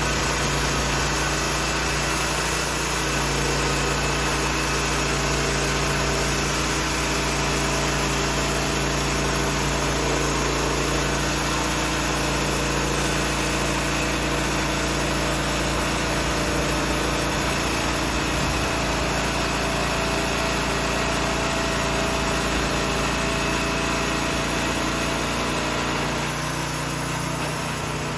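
An engine running steadily at constant speed, easing off slightly near the end.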